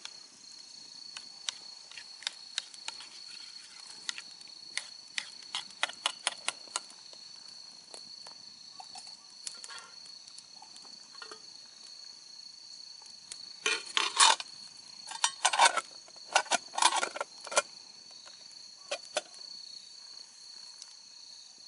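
Insects trilling steadily, with scattered sharp clicks. About fourteen to seventeen seconds in comes a run of louder clatter: metal cookware and utensils being handled.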